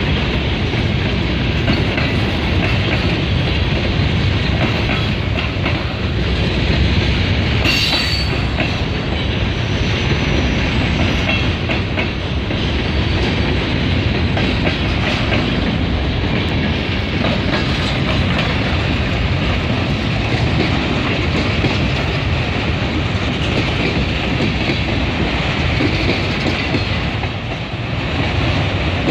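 Freight cars of a passing train rolling by close at hand: a steady rumble of boxcars, covered hoppers and autoracks with the clicking of wheels over the rail joints. A brief high screech, typical of a wheel flange on the rail, comes about eight seconds in.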